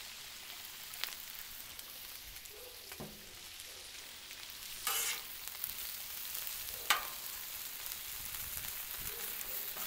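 Burger patties, onions and jalapeños sizzling in olive oil on the steel top of a Blackstone griddle, a steady high hiss. A metal spatula scrapes across the griddle plate twice in the second half while the onions are being tossed.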